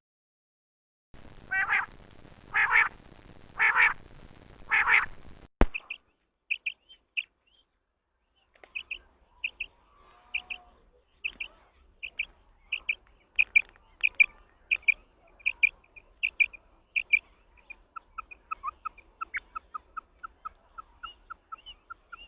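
Common quail calling. Four loud, harsh calls over background hiss end in an abrupt cut about five seconds in. After that comes a long run of short, sharp high notes in quick groups of two and three, with a lower series of notes joining in the last few seconds.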